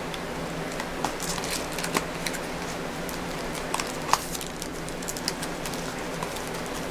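A small cardboard card box and a foil-wrapped trading card pack being handled and opened: scattered light clicks, scrapes and crinkles, the sharpest about two and four seconds in, over a steady low hum.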